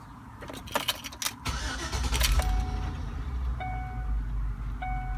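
2005 Chevrolet Tahoe's V8 starting: a few clicks, then the engine catches about a second and a half in and settles into a nice smooth idle. The truck had been idling roughly and stalling, which the owner puts down to water in the fuel. A warning chime dings about every 1.2 seconds over the idle.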